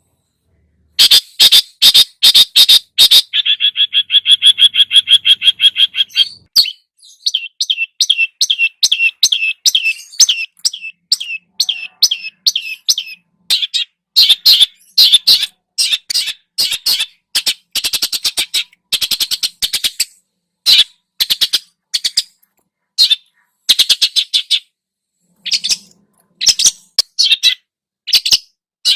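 Songbird singing a fast, harsh chattering song of the kind played to train caged birds. Runs of sharp clipped notes come with short gaps between them, and there is a buzzy rattling trill a few seconds in.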